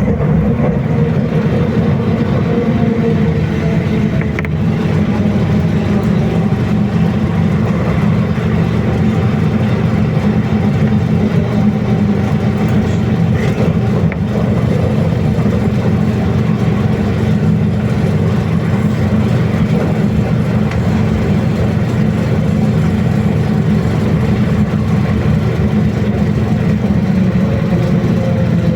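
Inside a BKM-321 trolleybus on the move: a steady rumble of tyres and running gear with the hum of the electric traction drive, its pitch drifting slightly as the speed changes.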